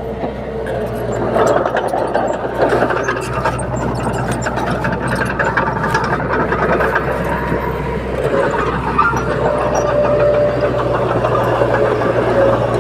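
Crawler bulldozer's diesel engine running steadily under work, with scattered clanks and clicks over the engine noise.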